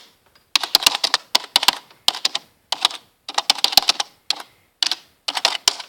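Typing on a keyboard: rapid keystrokes in short bursts with brief pauses between them, as when entering a search.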